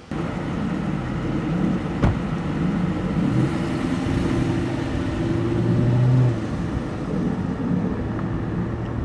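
Dodge Charger R/T's HEMI V8 engine running and revving as the car pulls away. The revs climb through the first half and ease off a little after six seconds. There is a single sharp knock about two seconds in.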